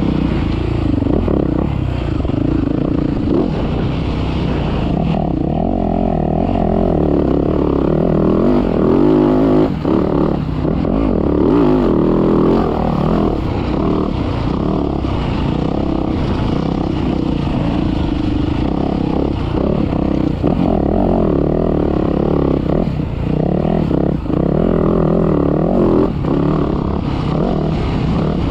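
Motocross dirt bike engine running hard through a practice lap, its pitch rising and falling with throttle and gear changes, with a few brief drops in level.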